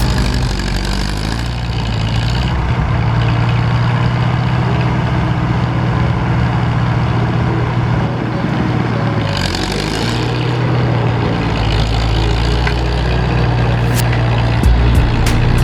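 International Utility 350 tractor engine running steadily, dipping briefly about ten seconds in, with a few sharp clicks near the end.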